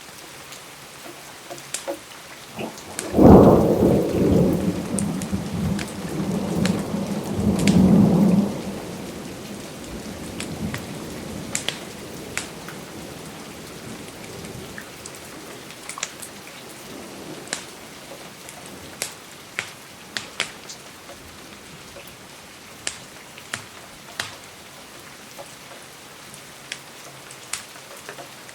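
Steady rain with a thunderclap about three seconds in that rumbles on for several seconds, loudest near its start and again just before it fades. Sharp crackling pops of a wood fireplace are scattered throughout.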